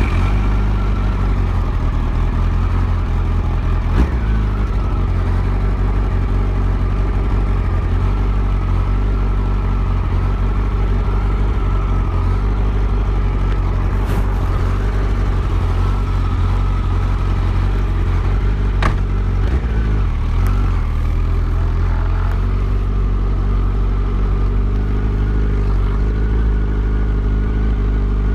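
Yamaha FZ1 motorcycle's inline-four engine idling steadily just after starting, with a few sharp clicks along the way.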